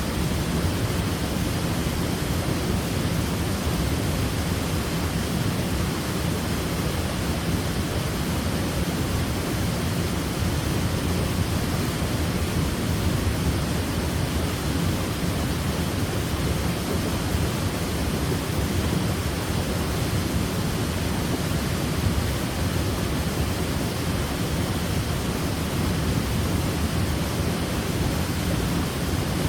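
Waterfall: falling water rushing steadily, a constant deep roar of spray with no changes.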